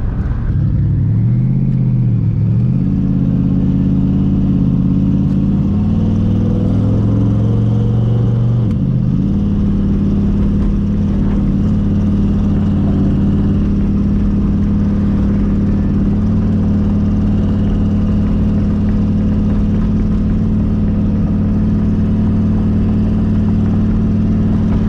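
Twin-turbo Mustang Cobra V8 running under way, loud and continuous. Its pitch climbs and drops twice in the first nine seconds as it shifts up, then holds steady at a cruise.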